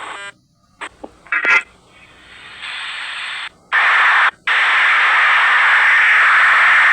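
Hissing static noise: after a few clicks it starts softly, cuts out twice briefly, then runs loud and steady.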